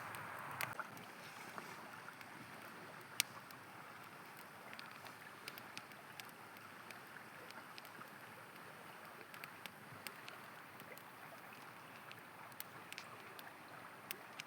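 Campfire crackling, with scattered sharp pops, one louder than the rest about three seconds in, over a faint steady rush of flowing river water.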